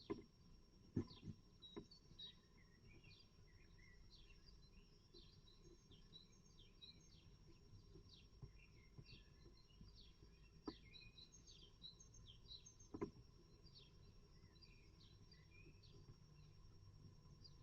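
Faint chirping of small birds throughout, with a few sharp knocks and taps from inside a great tit nest box, the loudest about a second in and near the middle.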